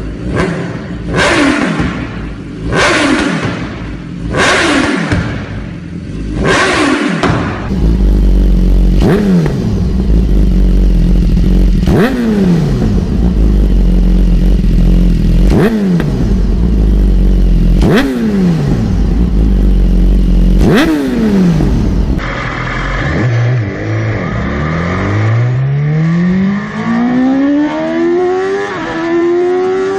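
High-revving motorcycle engine, revved again and again with the pitch dropping sharply after each rev. Near the end it accelerates in one long, steadily rising climb.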